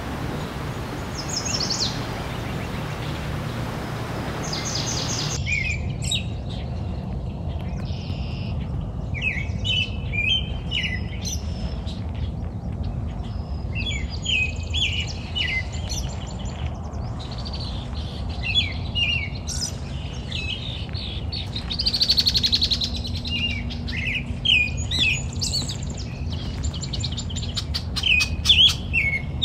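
Small birds chirping: many short, high calls, repeated irregularly, over a steady low hum.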